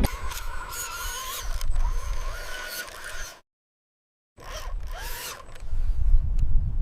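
Small electric motors and gears of radio-controlled construction models whining and rasping, the whine wavering up and down in pitch. The sound cuts out completely for about a second halfway through, then resumes.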